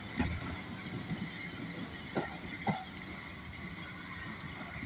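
Departing passenger train rolling away along the track, a steady rumble of the receding carriages, with two short knocks about two seconds in.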